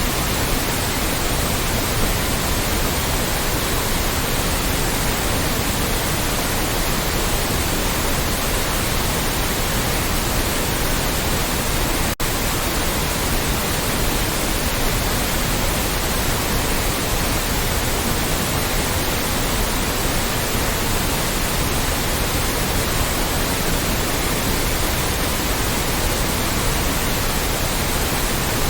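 Steady, extra-loud white noise: an even hiss spread across all pitches, with a split-second dropout about twelve seconds in.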